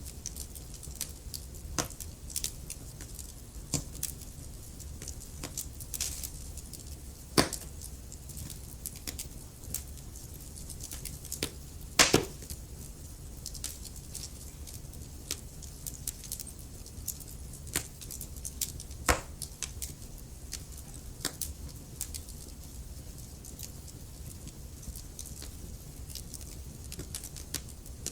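Wood fire burning in a fireplace: a steady low rumble of flames with irregular crackles and occasional louder pops, the loudest about 7, 12 and 19 seconds in.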